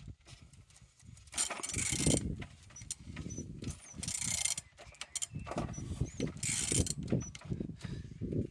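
A removed engine being turned over by hand with a ratchet wrench, in several strokes about two seconds apart with ratchet clicks and faint squeaks from the pulleys; it turns freely.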